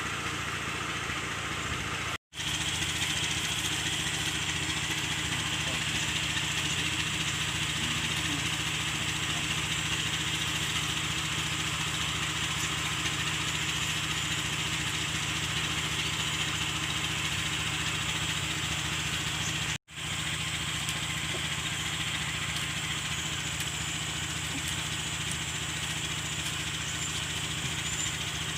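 A small engine running steadily, with two brief breaks in the sound about 2 and 20 seconds in.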